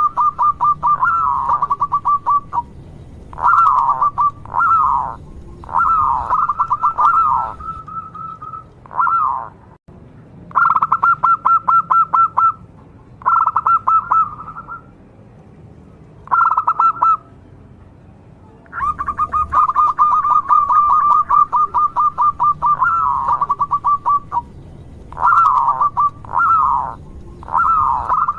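Local zebra dove (perkutut) singing over and over: phrases of fast rattling notes at one pitch, mixed with short dipping coos, each phrase a second or two long with short pauses between.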